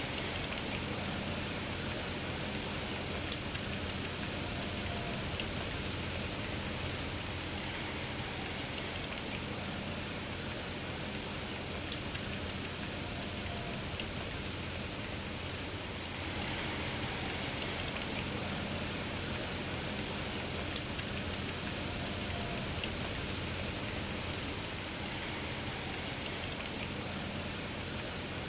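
Steady rain falling, an even hiss, with three sharp single drop-like ticks standing out about nine seconds apart.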